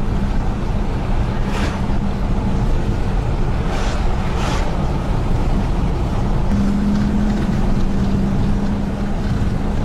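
A steady low motor drone with a constant hum and heavy rushing noise, with a few brief hissing swells.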